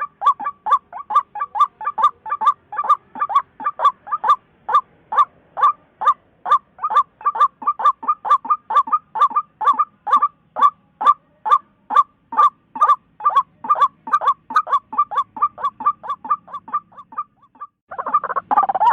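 White-breasted waterhen (chim quốc mặt lem) calling: a long, fast run of short clipped notes, about three or four a second. After a brief pause near the end, louder overlapping calls take over.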